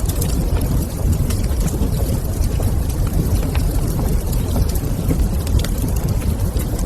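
Wood fire in a fireplace crackling, with scattered sharp pops and clicks over a steady low rumble.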